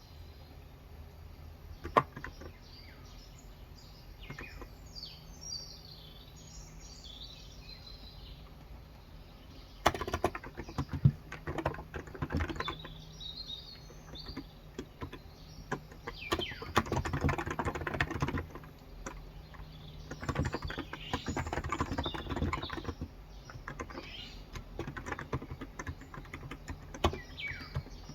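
Typing on a Cox Endeavor tenkeyless keyboard with 35g electrostatic capacitive switches: a few single keystrokes at first, then bursts of fast typing from about ten seconds in until near the end. Small birds chirp throughout.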